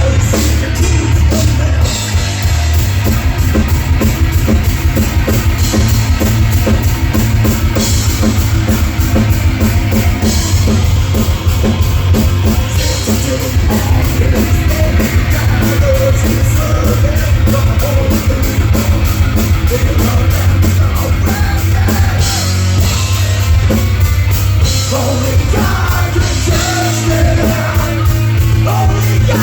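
Live rock band playing loud and without a break: drum kit driving a fast, even beat under heavy bass and electric guitar.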